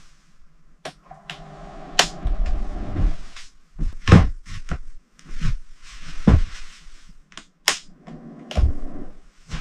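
A string of irregular knocks and thuds, about a dozen, a couple of them followed by a short ringing tone, as of hard objects or tools striking building materials.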